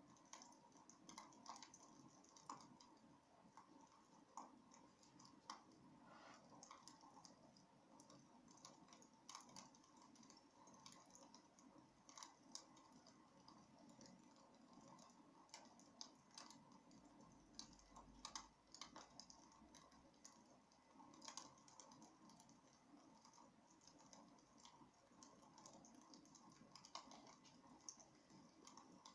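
Wood fire burning in a fireplace, crackling faintly with irregular small pops and snaps over a soft steady hiss.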